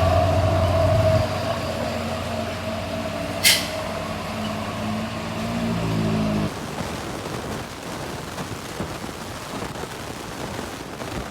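Heavy truck engine running low and steady, with one short, sharp air-brake hiss about three and a half seconds in. The engine sound drops away suddenly about six and a half seconds in, leaving a rough, even background noise.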